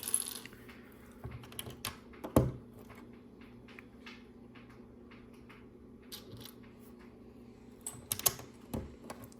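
Small LEGO plastic pieces clicking and tapping as they are handled and pressed onto a baseplate: scattered light, irregular clicks, with louder knocks about two and a half seconds in and twice near the end.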